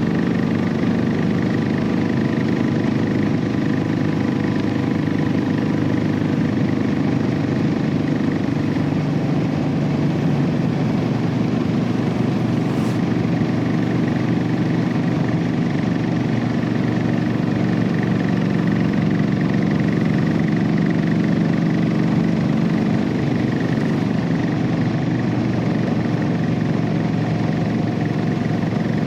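Royal Enfield Classic 500's single-cylinder engine running through its stock exhaust while the motorcycle is ridden at a steady, even pace.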